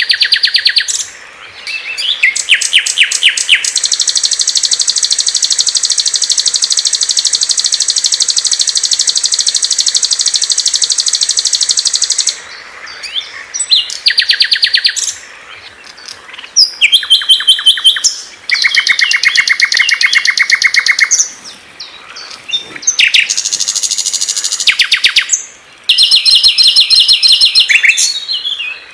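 Small songbirds singing fast, high trills and chirps. One long unbroken trill lasts about eight seconds, followed by shorter trilled phrases at different pitches with brief pauses between them.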